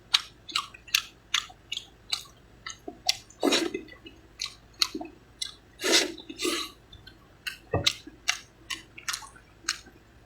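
Close-up, wet, smacking chewing of a mouthful of starch noodles: a quick run of sharp mouth clicks with two longer, louder sounds about three and a half and six seconds in.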